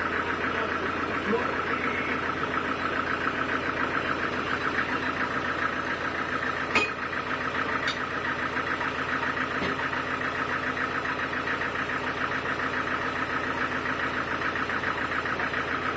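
Sawmill machinery running steadily with a fast, even pulsing. There is a sharp knock about seven seconds in.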